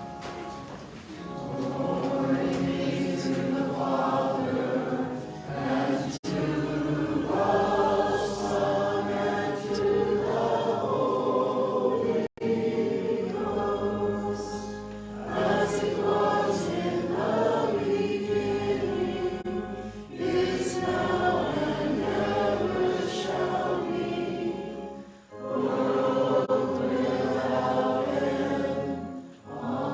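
A choir singing a sacred song in several voices, in phrases broken by short pauses for breath.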